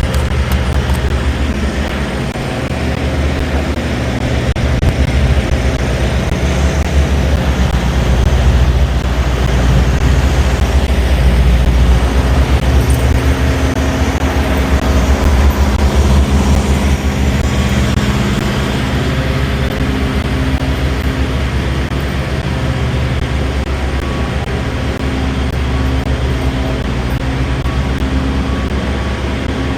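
Semi truck's diesel engine running while the truck drives, a steady low drone whose pitch steps up and down now and then.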